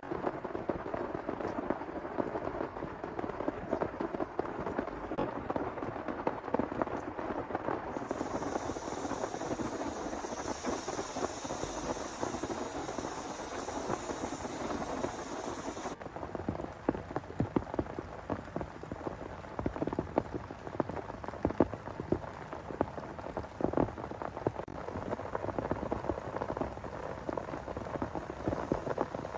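Heavy rain falling, a dense, steady patter of drops hitting close by. About a third of the way in, a brighter hiss joins for several seconds, then cuts off abruptly.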